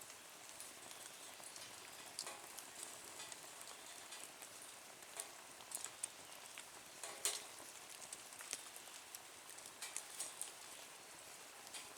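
Wood fire crackling in a small nature stove: a faint steady hiss with irregular pops and snaps, the sharpest crack a little past halfway.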